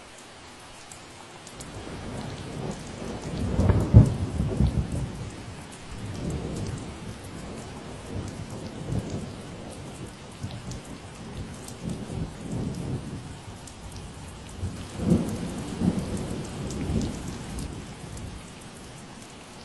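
Steady rain with a long roll of thunder. The rumble builds about a second and a half in, is loudest with a sharp crack around four seconds, rolls on, swells again near fifteen seconds, then fades back to the rain.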